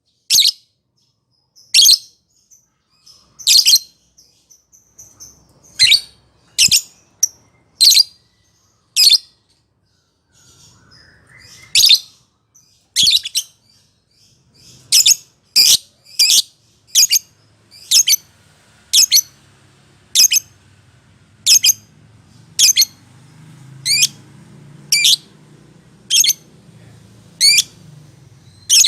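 Lovebird giving short, high-pitched chirps, irregularly at first and then about one a second through the second half.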